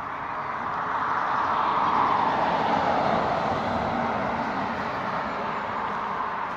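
A vehicle passing by: a steady rushing noise that swells to its loudest about two seconds in, then slowly fades as it drops a little in pitch.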